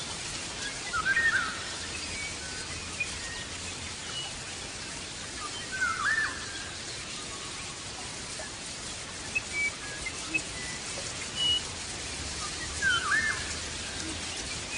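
Birds calling, with three louder looping calls about five and seven seconds apart and scattered short chirps, over a steady hiss.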